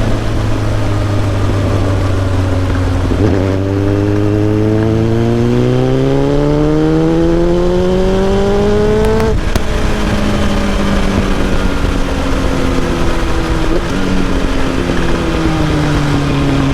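Kawasaki ZX-7R sportbike's inline-four engine under way, heard through a microphone at the exhaust: it holds steady for about three seconds, climbs steadily in revs for about six seconds, drops sharply in pitch about nine seconds in, then runs on and eases down in revs near the end.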